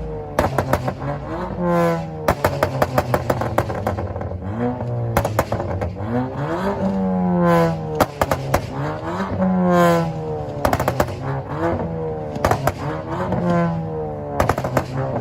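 Modified cars' engines revving hard again and again, the pitch sweeping up and dropping back, with rapid strings of sharp exhaust pops and bangs between the revs.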